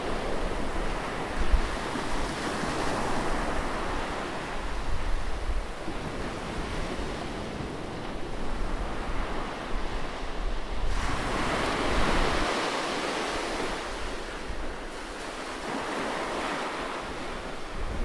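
Ocean surf breaking and washing over shoreline rocks, a continuous rushing wash that swells as a bigger wave surges in about eleven seconds in and again near the end. Wind buffets the microphone with a low rumble under the surf.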